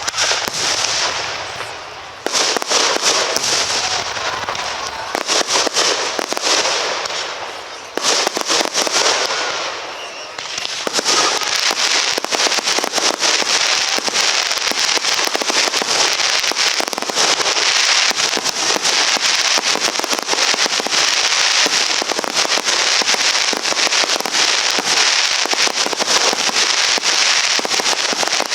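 Aerial fireworks display: shells bursting amid dense crackling, with new loud bursts about two, eight and eleven seconds in. After that the crackling runs on without a break as many effects go off at once.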